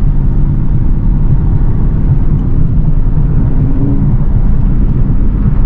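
Straight-piped Dodge Charger Scat Pack's 392 HEMI V8 exhaust, a loud, steady low rumble while driving, heard from inside the car.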